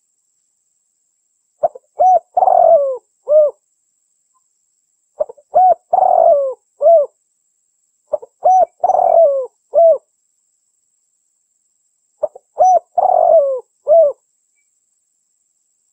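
Female derkuku (spotted dove) cooing: four phrases, each of a couple of quick short notes, a longer coo and a final short note, repeated about every three and a half seconds with pauses between.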